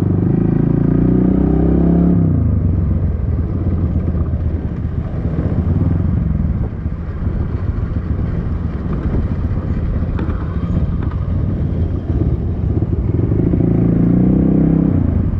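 Dirt bike engine running as it is ridden. The engine note is strong for the first two seconds, then drops away under a steady rumble, and rises again near the end.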